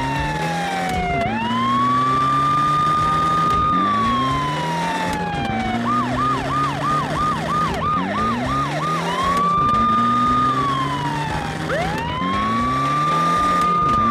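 Police car siren wailing in slow rising and falling sweeps, switching for about three seconds in the middle to a fast yelp of about three sweeps a second, then back to the wail. A lower sound rises in pitch again and again beneath it.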